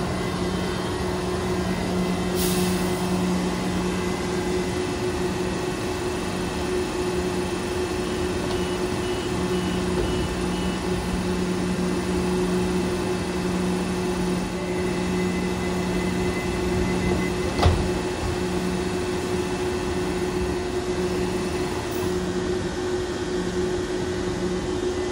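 Train's steady mechanical hum, with a faint run of short beeps about a third of the way in and a single sharp click about two-thirds through.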